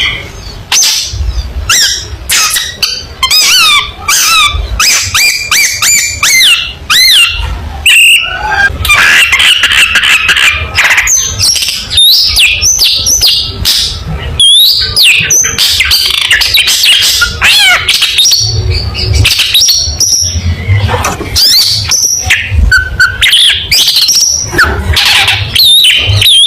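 Long-tailed shrike (cendet) singing loudly and without pause: a fast, varied string of sharp whistled glides, clicks and harsh chattering phrases, full of mimicked calls of other birds.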